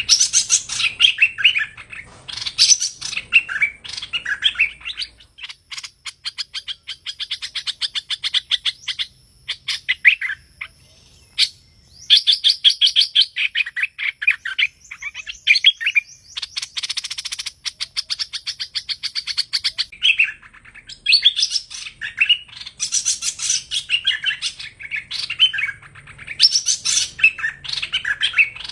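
Song of a hoành hoạch bird, the sweet 'thơm' call used to lure the species to traps: repeated phrases of chirping notes and rapid trills, with brief pauses between phrases.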